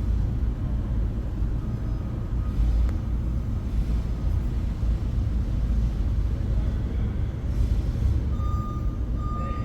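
Steady low background rumble of a large indoor hall, with a faint steady high beep coming in near the end.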